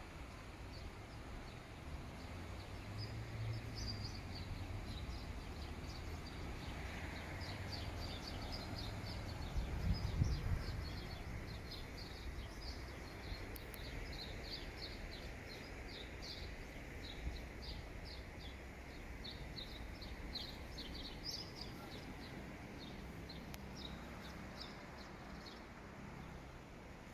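Small birds chirping, many short high calls in quick succession, over a low outdoor rumble. A louder low rumble rises briefly about ten seconds in.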